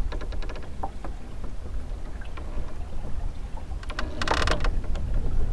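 Wind rumbling on the microphone aboard a small sailing dinghy under way, with scattered light knocks and clicks from the boat. A brief, loud, fluttering rattle comes about four seconds in.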